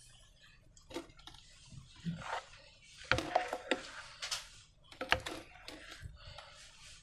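Slime and balloons being handled by hand: irregular sticky clicks and crackling squishes, busiest in the middle and again about five seconds in.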